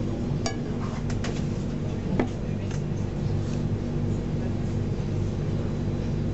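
Steady low hum of a moving train heard from inside the carriage, with a few sharp clicks in the first couple of seconds.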